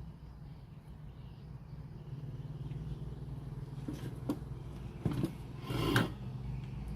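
Steady low electrical hum, with a few sharp clicks and a brief scraping rustle just before six seconds in.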